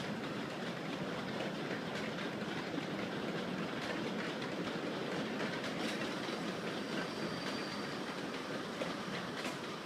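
Kurobe Gorge Railway narrow-gauge trolley train running on its rails: a steady rumble and rattle, with occasional clicks of the wheels.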